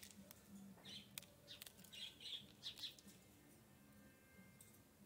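Faint short bird chirps: one about a second in, then several in quick succession from about two to three seconds in, with a few light sharp ticks between them.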